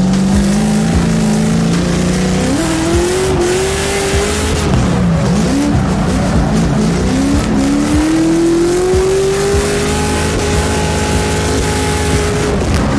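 Drift car's engine revving hard, its pitch swooping up and down several times and then climbing in one long rise, with tyres squealing as the car slides.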